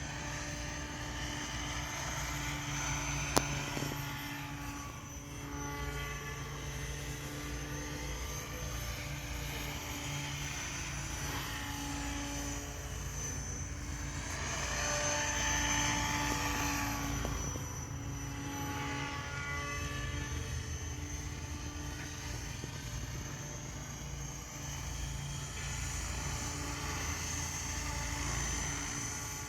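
SAB Goblin Raw 700 electric radio-controlled helicopter in flight: the motor and rotors make a steady whine that shifts slowly in pitch and grows loudest about halfway through. A single sharp click about three seconds in.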